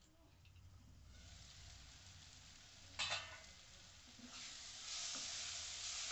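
Onion-tomato masala frying in oil in a nonstick pan, sizzling faintly under a lid, then a sharp knock about halfway through, then louder sizzling as it is stirred with a wooden spatula. The masala has fried to the stage where the oil separates from it.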